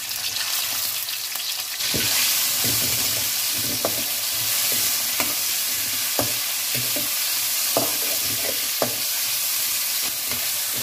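Sliced chicken and garlic sizzling in hot oil in a wok, the frying getting louder about two seconds in. A metal slotted spatula stirring them scrapes and clinks against the pan every second or so.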